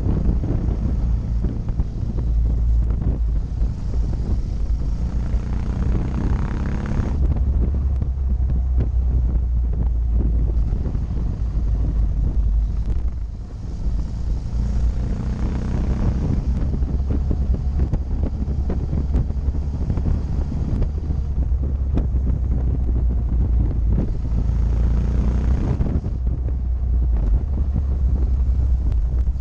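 Motorcycle engine running under way, with wind buffeting the action camera's microphone. The engine note builds three times and drops off sharply each time, as when accelerating and then shifting or rolling off the throttle.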